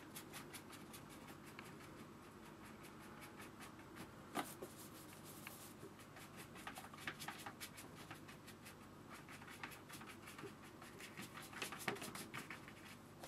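Faint, quick dabs and strokes of a large hake brush on wet cold-press watercolour paper, with one sharper tap about four seconds in.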